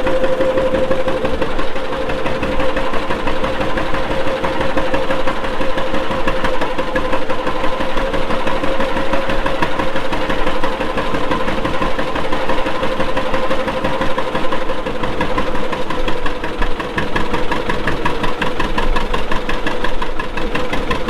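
Antique farm tractor engine running steadily with a fast, even pulse, a steady whine riding over it.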